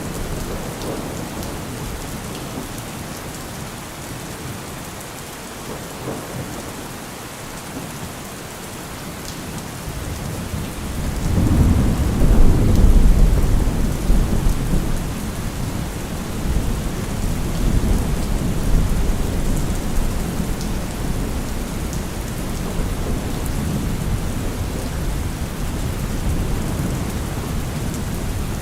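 Heavy rain falling steadily. About eleven seconds in, a deep low rumble swells up under it and then slowly eases off.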